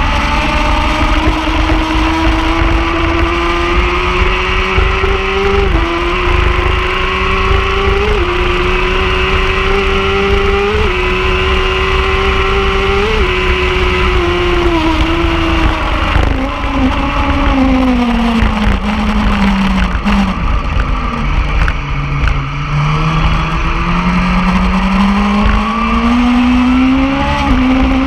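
Superbike engine accelerating hard through the gears: its pitch climbs and drops back at four quick upshifts, then falls away as it slows down and shifts down, and rises again near the end as it accelerates once more.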